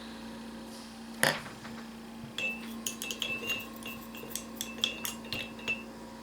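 Quick light clinks against glass, a dozen or so over about three seconds, each with a brief ringing, like a paintbrush tapped against a glass water jar. A single sharp knock comes about a second in.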